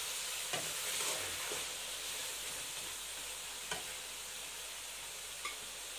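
Diced chicken and carrots sizzling steadily in a metal pan over a low gas flame while a slotted metal spoon stirs them, with a few light clicks of the spoon against the pan.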